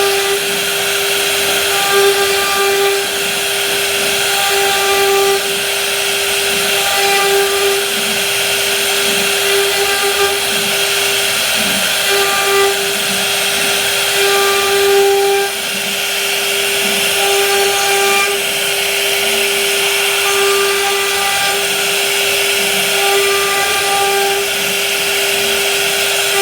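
Electric woodworking power tool running and cutting wood: a steady motor whine under a loud, bright hiss, with short higher tones coming back every couple of seconds.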